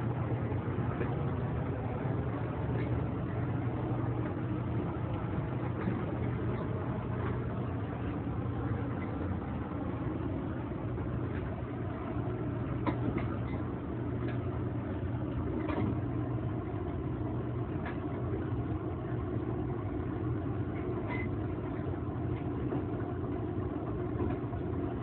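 Steady low engine rumble with a constant hum, like an idling vehicle, with a few faint clicks over it.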